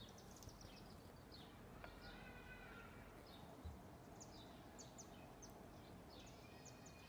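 Faint songbirds chirping: scattered short, high chirps, with a run of chirps about two seconds in and another near the end, over quiet background noise.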